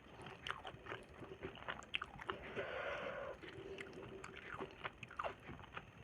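A person chewing and eating food close to the microphone, with irregular sharp mouth clicks and a longer stretch of sound about two and a half seconds in.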